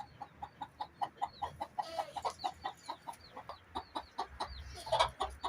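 Chickens clucking in a quick run of short clucks, about four a second, with faint high chirps over them and a louder burst near the end.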